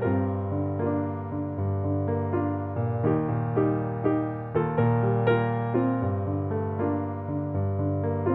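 Background piano music: gently paced notes, each struck and fading, over held low bass notes.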